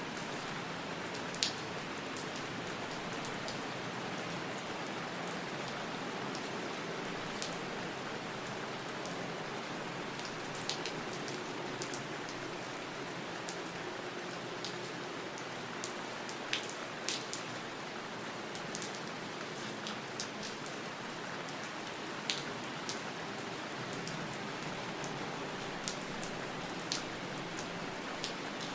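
Steady rain falling, with occasional louder single drops ticking sharply close by.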